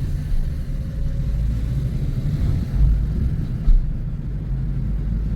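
Toyota car with an MMT semi-automatic gearbox on a test drive: a steady low engine and road rumble, with short thumps just under three seconds in and about a second later.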